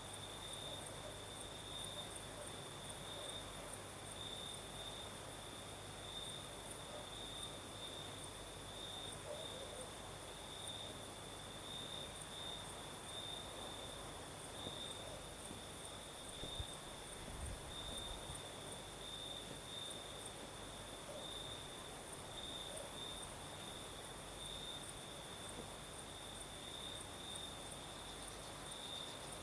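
Crickets singing in a steady, evenly pulsing trill, with a second, higher-pitched insect chorus ticking above it, over a faint low hiss of breeze.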